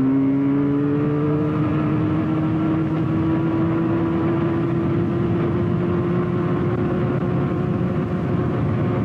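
Yamaha two-stroke motorcycle engine running while riding along, its pitch rising slightly over the first couple of seconds and then holding steady at cruising speed.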